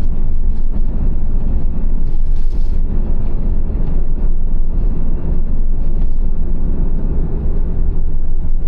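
Van driving on the road: a loud, steady low rumble of engine and road noise that does not let up.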